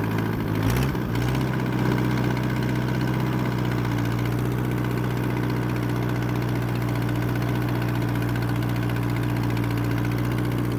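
Allis-Chalmers D14 tractor engine running steadily. It picks up speed about a second in, with a short knock just before, then holds an even note.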